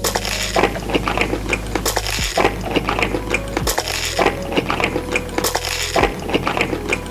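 Close-up eating sounds: crackly, wet chewing and crunching of food with occasional clinks of cutlery on dishes, over soft background music.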